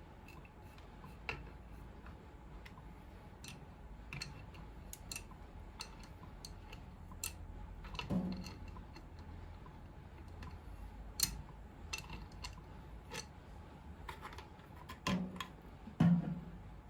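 Scattered light clicks and small metallic knocks of hand tools and faucet parts being handled, with a few louder knocks about 8 seconds in and twice near the end.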